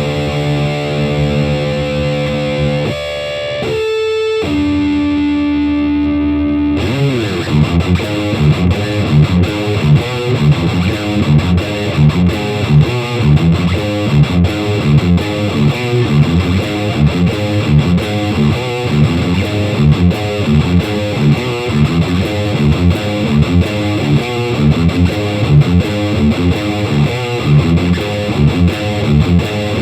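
Electric guitar in D standard tuning, played through a Fender Champion 100 amp with no pedals. It opens with a few held, ringing notes and chords, then about seven seconds in breaks into a fast, rhythmic riff of repeated low notes.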